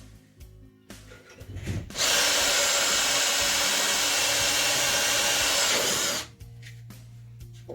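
Power drill running steadily for about four seconds, starting about two seconds in and stopping abruptly, with small clicks and knocks before it.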